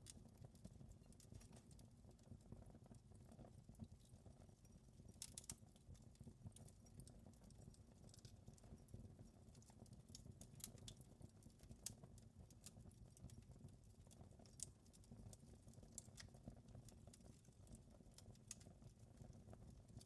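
Quiet wood fire crackling in a fireplace: irregular sharp pops and snaps, a few louder ones now and then, over a soft low rumble of the burning fire.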